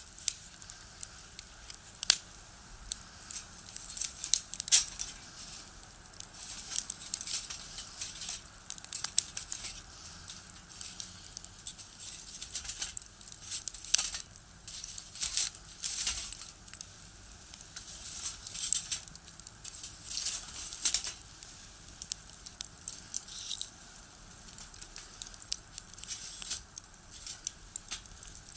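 Firewood burning in a small box stove, crackling with irregular sharp pops, some bunched close together and others spaced out.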